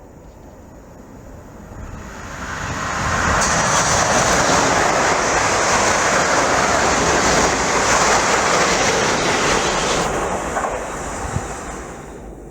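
A train passing at speed. The rushing noise builds over about two seconds, stays loud for about seven, then fades away.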